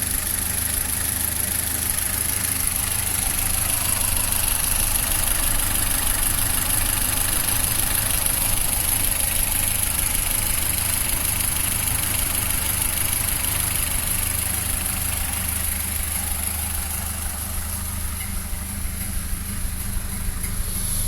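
1931 Ford Model A's four-cylinder flathead engine idling steadily, running well now that the empty tank has gas in it again.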